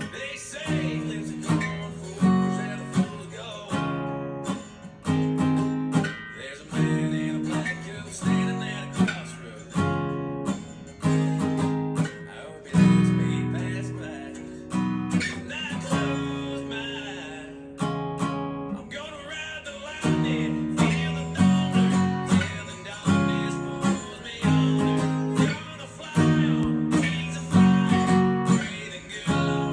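Acoustic guitar strumming a repeating chord progression (E♭m, G♭, D♭, A♭) in a steady rhythm.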